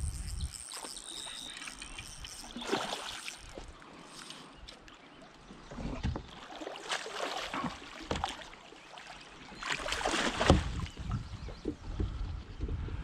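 Irregular splashing water and knocks on and around a kayak while a hooked smallmouth bass is fought alongside and brought to the net.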